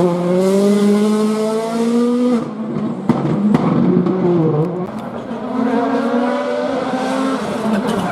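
Rally car engine at full throttle, pitch rising for about two seconds, then a sudden lift with a few sharp cracks about three seconds in. After a wavering, lower stretch it pulls up in pitch again before easing off near the end.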